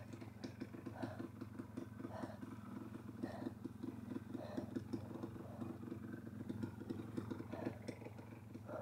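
Dirt bike engine running steadily at low revs, a fast even chugging, as it crawls along a slippery muddy trail; it cuts out at the very end.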